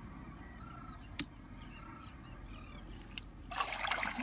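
A bird calling in short arched notes, a handful of times about a second apart. Near the end comes a louder splashing rustle as a leg wades through shallow water and reeds.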